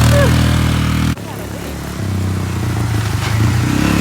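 Four-wheeler (ATV) engine running steadily. The sound cuts off abruptly just over a second in, and the engine is heard again, a little quieter, about a second later.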